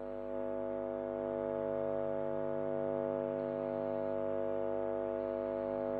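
A steady drone of several held tones, unchanging in pitch and level.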